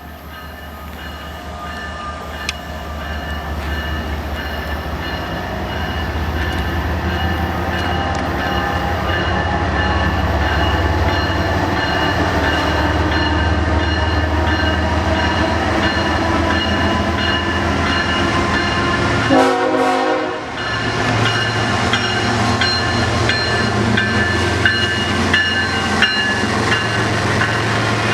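Diesel train running with a steady low engine rumble that grows louder over the first few seconds and then holds. Faint high squealing tones sound throughout, and scattered clicks come near the end.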